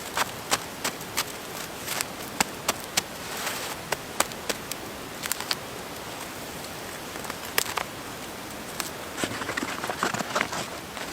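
Irregular sharp clicks and crackles over a steady hiss, thickening into a quick cluster near the end.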